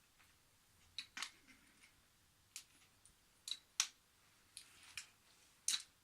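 Wooden IKEA toy train pieces clicking and clacking against the wooden track: sharp, irregular wooden knocks, about eight over a few seconds.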